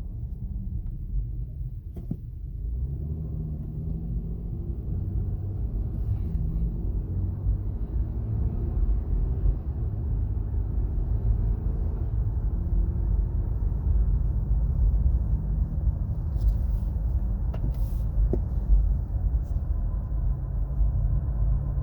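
Road and drivetrain noise inside a 2017 Acura MDX's cabin while driving: a steady low rumble with faint steady tones riding over it. The owner is chasing a whine that rises with speed and that probably comes from the front passenger side.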